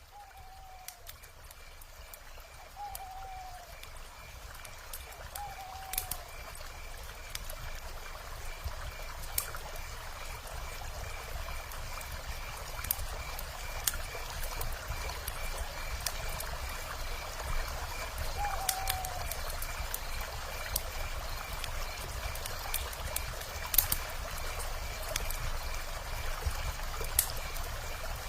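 Wood fire crackling with sharp pops over the steady rush of river water, fading in over the first several seconds. A few short falling calls sound in the first six seconds and once more about eighteen seconds in, over a faint high pulsing tone.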